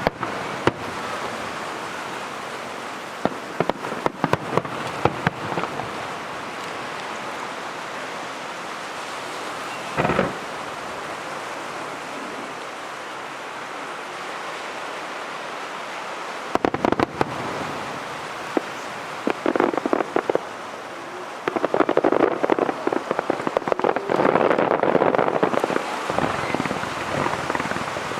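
Aerial fireworks going off: scattered sharp bangs over a steady hiss, then dense crackling from bursting shells that builds to its loudest a few seconds before the end.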